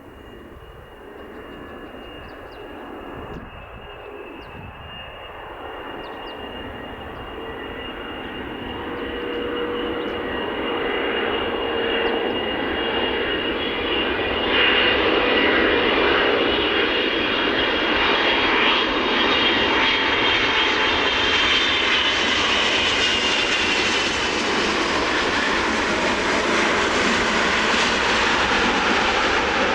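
Jet airliner's engines growing steadily louder over about fifteen seconds as it approaches, then holding loud as it passes close, a steady high whine over a broad rushing roar.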